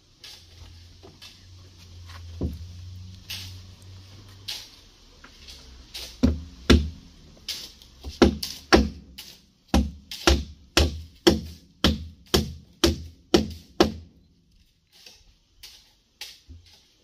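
Hammer blows knocking wooden formwork boards off a cast concrete column: a few scattered knocks, then a steady run of heavy blows about two a second that stops about fourteen seconds in.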